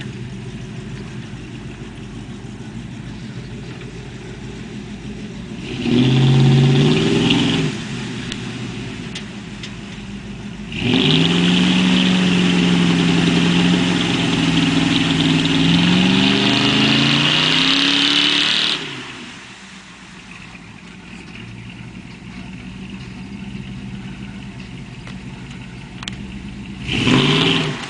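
Truck engine running steadily, revved hard three times: a short burst about six seconds in, a long rev of about eight seconds with rising pitch starting about eleven seconds in, and another short burst near the end.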